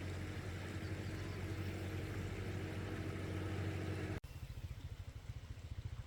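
An engine running steadily with a fast, even pulse. About four seconds in, the sound cuts off abruptly and switches to a lower, duller engine sound.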